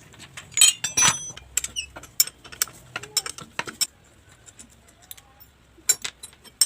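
Irregular metallic clicks and clinks of small metal parts being handled and tapped together, loudest in a cluster about a second in and again near the end.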